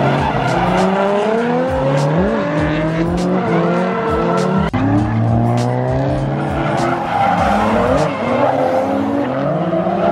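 Drift cars' engines revving hard, several at once, their pitch rising and falling repeatedly, with tires squealing as the cars slide.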